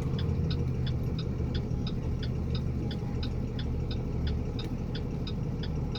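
Turn-signal indicator clicking evenly, about three clicks a second, inside a moving box truck's cab over the steady low rumble of the engine and road.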